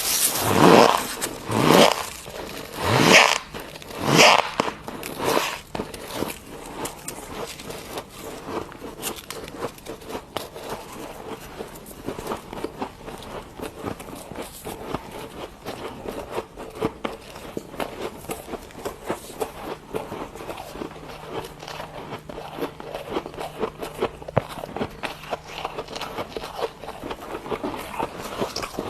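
Freezer frost being bitten and chewed close to the microphone. A few loud crunching bites come in the first few seconds, then steady, fine crackling chewing follows.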